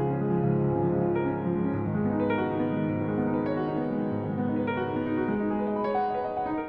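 Background piano music: slow, soft sustained chords with new notes entering about once a second.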